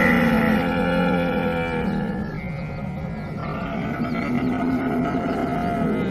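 Camel calling in long, drawn-out vocalisations, louder in the first two seconds, easing a little, then swelling again near the end.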